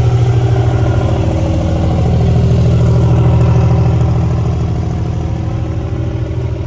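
Diesel pickup truck engine idling loud and close, with a fast, even pulse and a slight rise and fall in engine speed around the middle.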